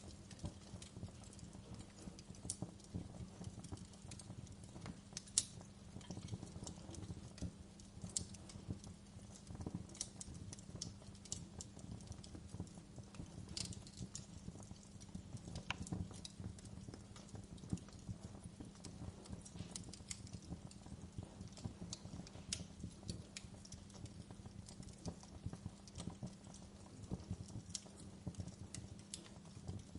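Wood fire burning in a fireplace, with irregular sharp crackles and pops from the logs over a steady low rumble of the flames.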